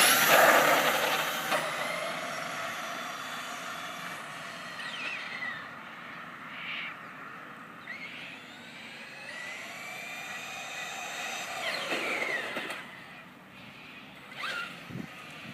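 Electric 1:8 RC monster truck (Thunder Tiger MT4 G3) being driven: its electric motor whines, rising and falling in pitch several times as the throttle is worked, over tyre and ground noise. A loud knock and rush of noise right at the start.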